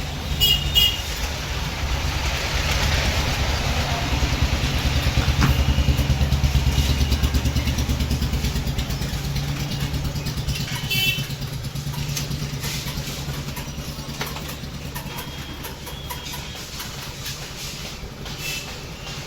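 Small petrol engine of a crop-spraying machine running, its speed and loudness rising to a peak several seconds in, then easing back to a steady idle. A few short metallic clinks sound near the start and again about eleven seconds in.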